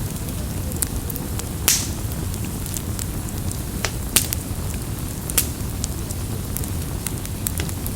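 Wood campfire burning: a steady low rumble of flames with scattered crackles and sharp pops, the loudest pop about a second and a half in.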